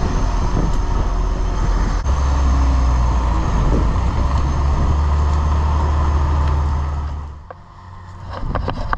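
Old engine running with a loud, low rumble that gets heavier about two seconds in, then fades sharply around seven seconds in and starts to build again near the end.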